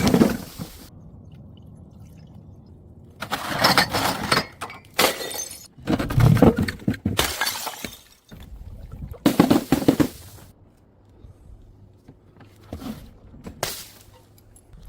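Glass bottles smashing, several separate breaks with shards scattering, each followed by a short quieter gap.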